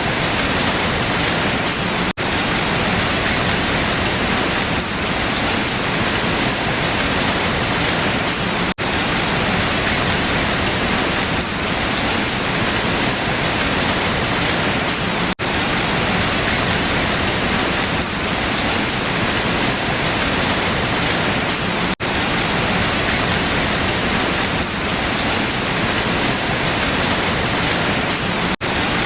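Steady heavy rain falling on leaves, a dense even hiss of drops, broken by a very short dropout about every six and a half seconds.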